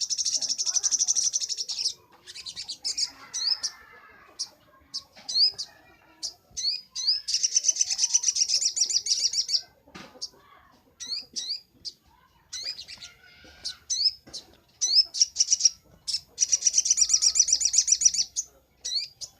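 Little spiderhunter (sogok ontong) singing: three fast, high trills of about two seconds each, with single sharp rising chirps in between.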